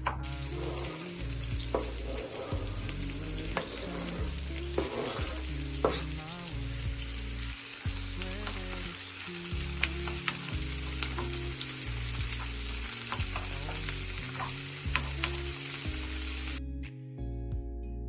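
Food sizzling as it fries in a pan, a steady hiss with scattered clicks and taps of a utensil stirring it, cutting off suddenly near the end. Soft background music plays underneath.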